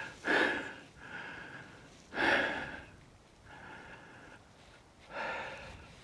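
A person breathing hard, with three loud exhales about two to three seconds apart and quieter breaths between them.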